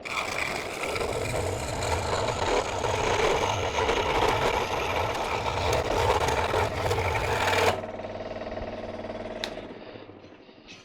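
Scroll saw running and cutting a curve in a cedar board. It is switched off about eight seconds in, and its motor hums briefly as it winds down.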